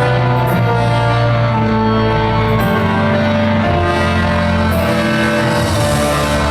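Live rock band playing an instrumental passage through a loud concert PA, with held chords layered over a steady bass line and no vocals.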